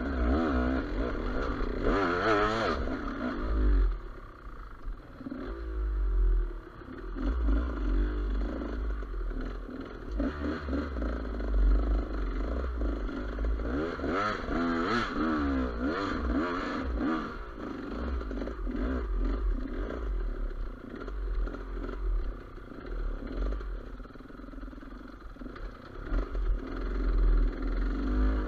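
GasGas EC200 two-stroke enduro motorcycle engine riding off-road, its revs rising and falling over and over, with sharper surges of throttle about two seconds in and around the middle. A heavy low rumble of wind and bumps on the microphone lies underneath.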